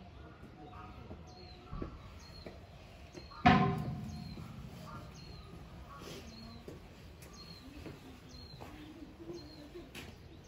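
A small bird repeats a short chirp, about three calls every two seconds. About a third of the way in comes a single loud clang that rings on briefly.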